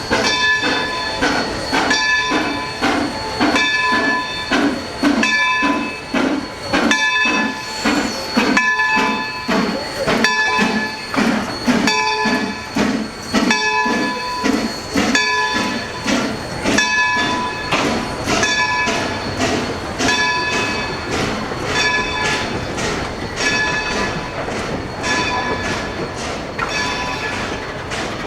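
Locomotive bell ringing steadily, about once a second, as a train moves through the yard, with a regular low pulsing from the moving train underneath that fades about halfway through.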